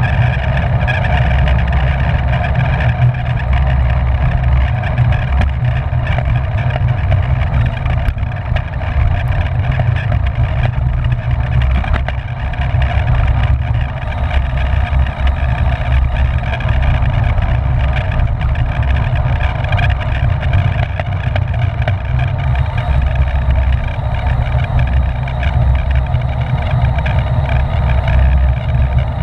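Wind rushing over the microphone of a racing cyclist's camera at speed, a loud, steady, heavy rumble with a constant higher hum from the bicycle rolling over the track.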